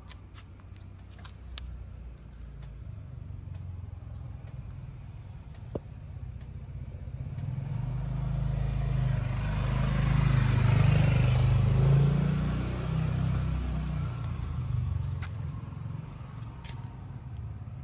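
A motor vehicle's low engine rumble that swells, with a rushing noise on top, to its loudest about eleven seconds in and then fades again. There is a single sharp click about six seconds in.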